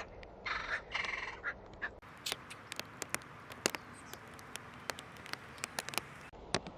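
Two harsh, caw-like bird calls in quick succession about half a second in, among many scattered sharp clicks and ticks.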